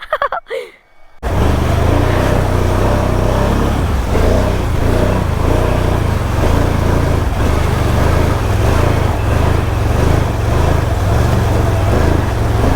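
A Can-Am Outlander ATV stuck in deep water, running loud and steady with a low drone, starting abruptly about a second in.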